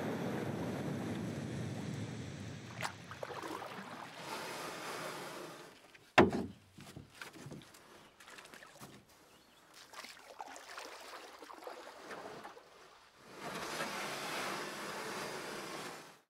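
Wind and water noise that fades out about six seconds in, then one sharp, loud knock followed by a few lighter knocks and taps; the wind and water noise comes back near the end.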